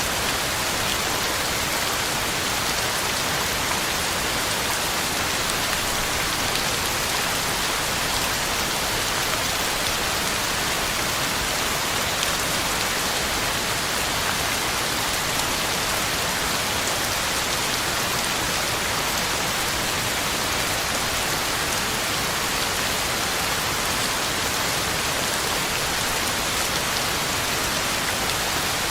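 Heavy rain falling steadily, a dense even hiss of drops hitting the ground and leaves.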